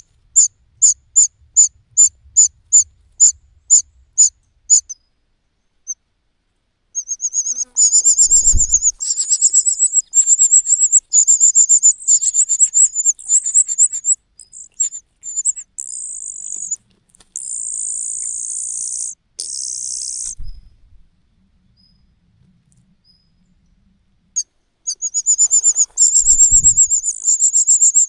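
Cuckoo chick's high, thin begging calls: separate cheeps about two a second, then after a short pause long rapid trills that break off and resume, with a quieter stretch before they start again near the end. A few short dull thumps come in between.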